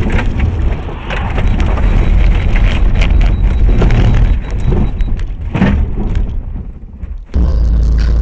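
Vehicle crash noise: loud, harsh crunching and crashing with many sharp knocks. About seven seconds in it cuts off, and music with a steady deep beat starts.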